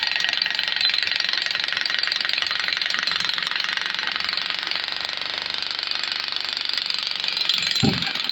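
Power breaker (jackhammer) hammering concrete in a fast, continuous rattle, stopping shortly before the end.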